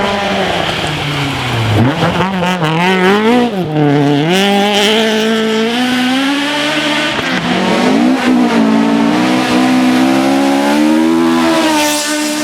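Ford Escort Mk II rally car's engine revving hard at full stage pace. The pitch drops as it lifts off about two seconds in and again near four seconds, then climbs through the gears and holds at high revs until the end.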